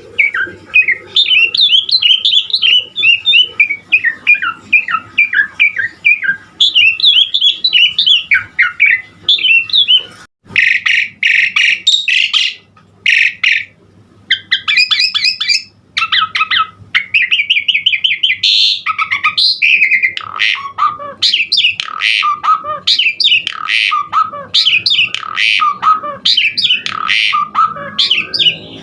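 Javan pied starling (jalak suren) in full song: a long, varied stream of rapid chattering and whistled notes. About ten seconds in, the song breaks into harsh, raspy bursts, then pauses briefly before the varied phrases resume.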